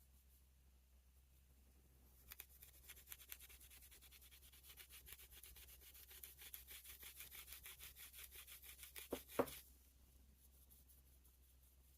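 Quiet, rapid back-and-forth rubbing strokes, several a second, from hand-cleaning a pocket knife. The strokes start about two seconds in and stop with a couple of louder knocks near the end.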